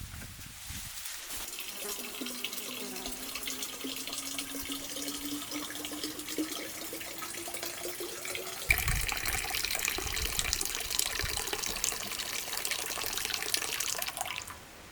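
Water running into a container, its pitch rising steadily as the vessel fills. About nine seconds in, the flow turns louder and more splashy, then stops abruptly near the end.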